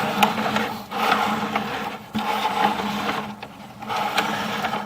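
Sewer inspection camera's push cable being fed through a drain pipe, rattling and scraping in several pushes with short breaks between them, over a steady hum.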